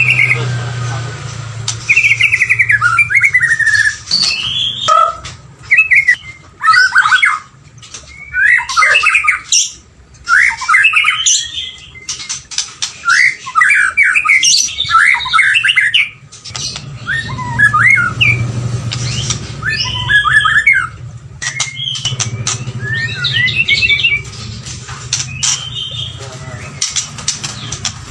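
White-rumped shama singing: quick, varied phrases of whistled glides, trills and harsher chattering notes in bursts separated by short pauses. A low hum runs underneath in places.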